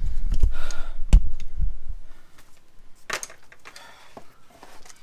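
Metal clinks and knocks from tools and suspension parts being handled, with a low rumble of handling noise and a sharp knock a little after a second in, then quieter clinks and a brief rattle near three seconds.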